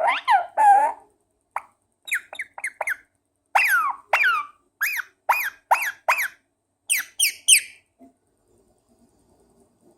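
Indian ringneck parakeet making a run of short squeaky calls and chirps, many of them falling in pitch, about a dozen in the first eight seconds, followed by faint soft clicking.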